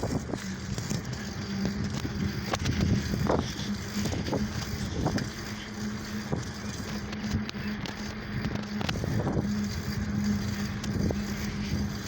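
Ride noise from a bicycle on the move, picked up by a phone: a steady low hum with irregular knocks about once a second over a low rumble.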